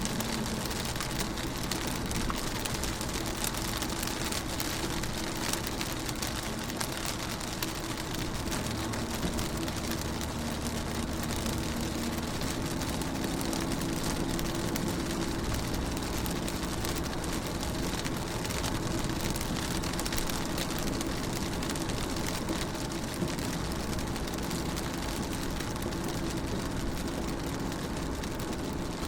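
Rain falling on a car's windows: a dense, steady hiss of drops with many small taps, over a low steady hum.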